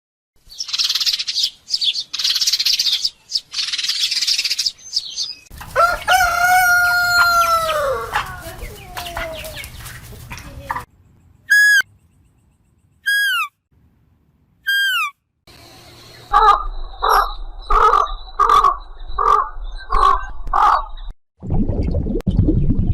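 Rooster crowing once, a long call that falls in pitch at its end. It is set among other short animal calls: hissy bursts before it, then three short high peeps, then a run of about seven evenly spaced calls, and finally a low rushing noise.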